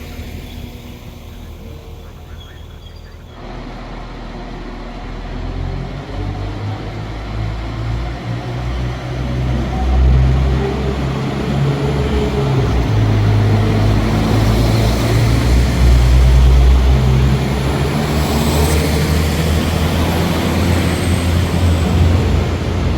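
A train's engine running with a deep drone that sets in about three seconds in and grows louder, its pitch shifting in steps.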